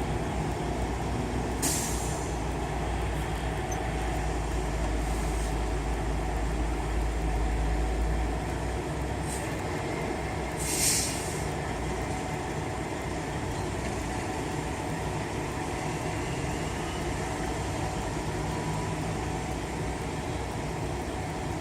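Semi-truck diesel engines idling in a steady rumble, with short air-brake hisses, one about two seconds in and a louder one about eleven seconds in. The low rumble eases about eight seconds in.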